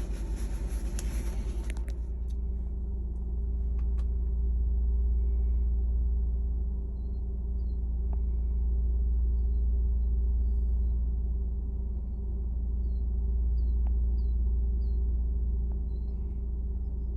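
Steady low drone of a vehicle's engine and road noise while driving, with a series of faint high chirps in the second half.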